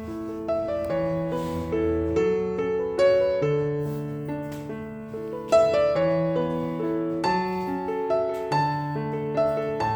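Background music: a gentle solo piano piece, with a melody of struck notes over held bass notes.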